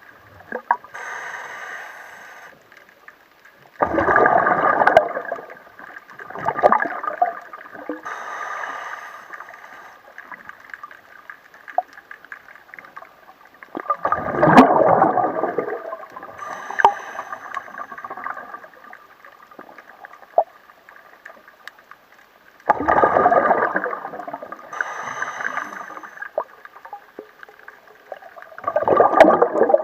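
Water gurgling and sloshing in surges that come and go every few seconds, around a boat's hull.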